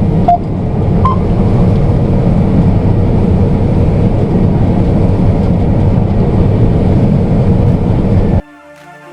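Combine harvester running steadily, heard from inside the cab, with a couple of short electronic beeps in the first second or so. The engine sound cuts off abruptly near the end.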